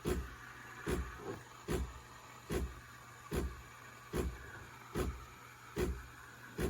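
CASABREWS espresso machine steaming milk: a steady hiss from the steam wand, with a short low throb from the machine repeating evenly about every 0.8 seconds. The milk is still heating slowly, froth already forming though it is not yet warm.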